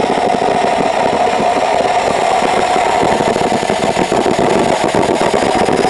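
Homemade turbojet engine running steadily with a loud, even rush of noise, and a faint high whine that rises slightly near the end.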